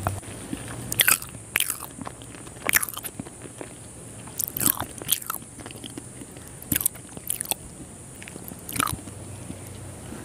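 Close-miked chewing of a soft, syrup-soaked gulab jamun: wet mouth smacks and clicks at irregular intervals.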